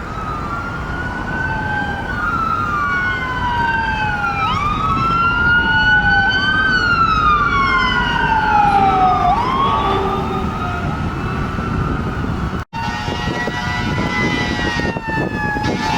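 Fire engine sirens wailing: two sirens out of step with each other, each rising and falling every few seconds, over the rumble of the trucks. About three-quarters of the way through, the sound breaks off briefly and gives way to a steadier siren tone that shifts slowly in pitch.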